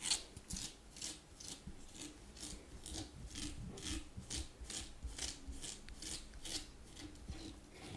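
Fast ASMR scratching: nails raking quickly over a surface in a steady run of short rasping strokes, about three a second.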